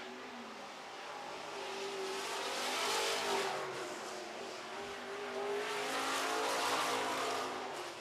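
Super Truck race trucks running laps on a dirt oval, their engines swelling loud as they pass about three seconds in and again around six to seven seconds in.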